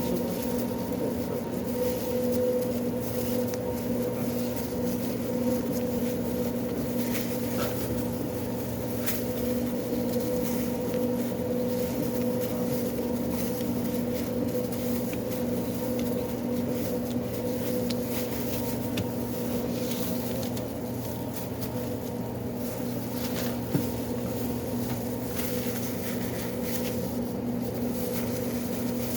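Steady machine hum at several fixed pitches, with a few faint clicks and knocks scattered through it.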